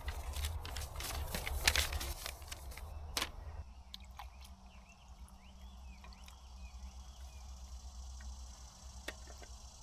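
Rustling and clicking of plastic ration-pack packaging being handled, then an abrupt change to quiet bush ambience: a steady low hum with a few faint chirps.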